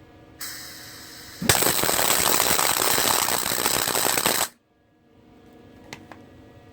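MIG welder arc crackling steadily for about three seconds while laying a tack weld on a steel axle truss, cutting off abruptly. A quieter hiss comes just before the arc starts.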